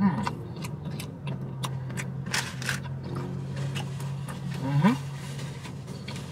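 A man chewing a mouthful of sandwich with low closed-mouth 'mmm' sounds over a steady low hum; one 'mmm' rises in pitch a little over a second before the end. Small clicks and crinkles of chewing and a paper napkin run through it.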